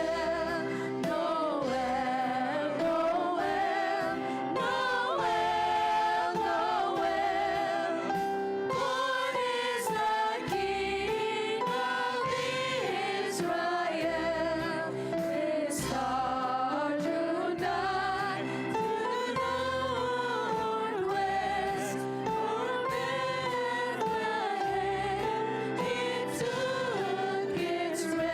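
Children's choir singing a melody over instrumental accompaniment, continuously.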